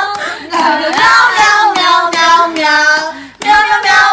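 A child's voice singing a quick, repetitive tune of short 'meow' syllables, about four a second, with a brief break a little past three seconds in.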